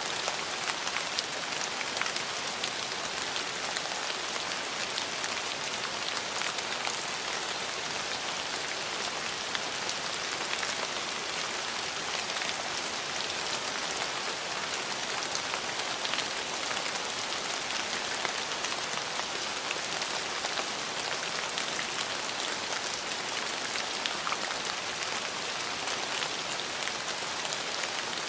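Steady rain falling, an even hiss with many small drop impacts.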